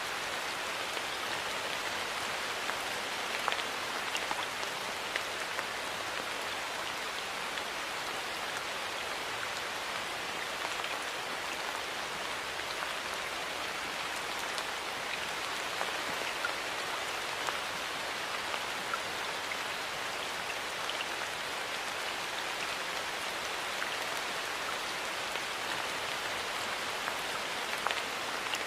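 Steady rain falling, an even hiss with many small drops pattering on a hard surface.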